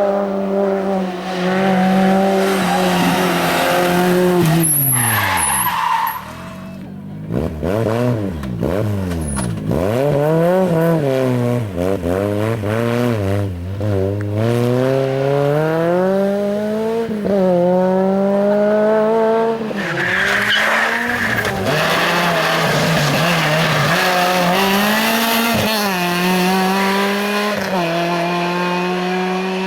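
Competition car engines revving hard and lifting off again and again through a slalom course, the engine note climbing and dropping with each gear change and braking point. The note falls away steeply about six seconds in before the next surge, and there is a burst of tyre squeal around two-thirds of the way through.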